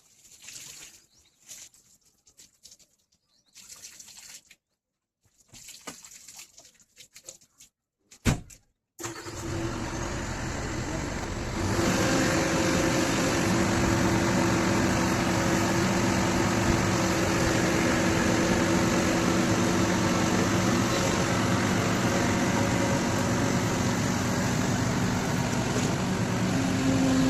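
Faint scattered sounds and a sharp knock, then about nine seconds in a JCB excavator's diesel engine starts up and runs steadily. Around twelve seconds it gets louder and holds there, with a steady hum under it.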